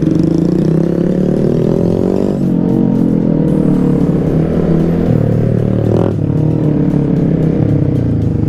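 Small motorcycle engine under way, probably a Honda Grom's 125cc single-cylinder. It climbs in pitch as it accelerates, then drops back at gear changes about two and a half seconds and five seconds in.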